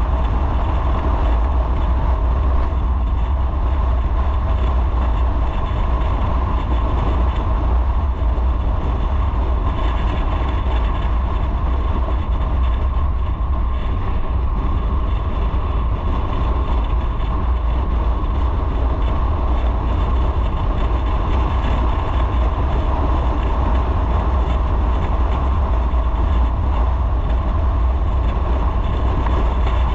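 Motorcycle running at a steady speed on the road, its engine rumble mixed with wind and road noise as a constant deep drone.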